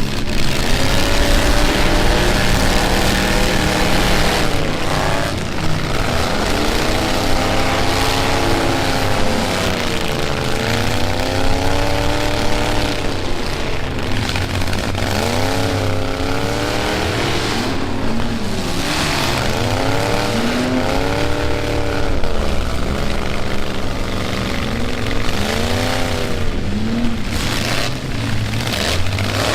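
Several pickup truck engines revving up and down in a demolition derby, their pitch swooping repeatedly as the trucks accelerate, with occasional collisions.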